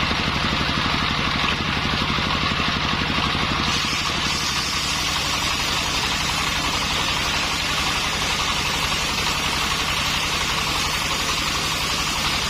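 Engine-driven circular saw running steadily with an even, fast pulse. About four seconds in, a higher hiss joins and carries on.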